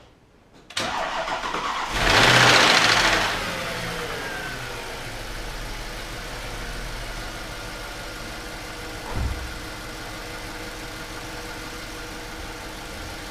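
Volkswagen Touareg 4.2 FSI V8 cranked by the starter for about a second, catching with a loud flare of revs, then settling to a steady idle. It knocks for the first few seconds after starting and then runs smoothly. The mechanic traces the knock to the right cylinder head's intake camshaft phaser, which is not locking the camshaft in place.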